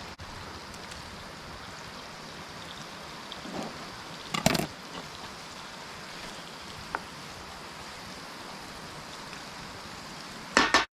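Seasoned diced potatoes sizzling steadily in a hot skillet over a campfire. Sharp knocks break in about four seconds in and again near the end.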